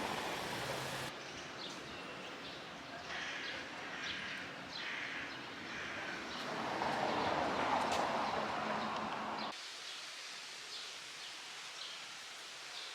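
Outdoor ambience: a steady background hiss with scattered short bird chirps. The background changes abruptly twice, about a second in and again near ten seconds, where the footage is cut.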